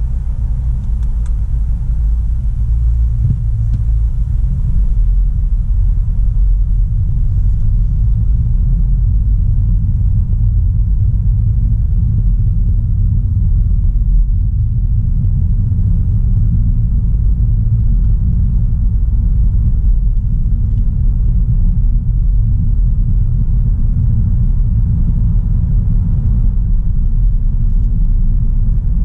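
2016 Audi A3 Sportback 1.4 TFSI driving at a steady pace: a steady low rumble of engine and road noise with no rise or fall in pitch.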